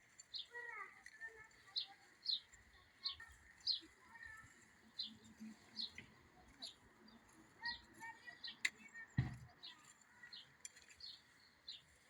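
A bird calling with short, high chirps repeated about once or twice a second, with a sharp click and a low thump about nine seconds in.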